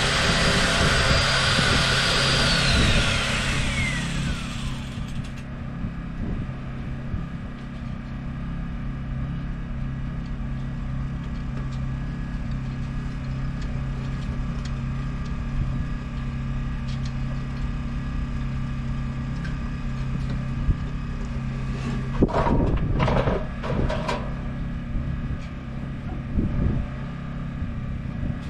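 Boat engine idling with a steady low hum. In the first few seconds a high whine falls in pitch and stops, and a few knocks and clatters come about three-quarters of the way through.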